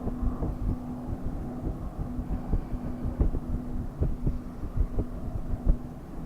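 Boeing 767 freighter's jet engines rumbling low and steady, with a faint hum, while wind buffets the microphone in irregular low thumps.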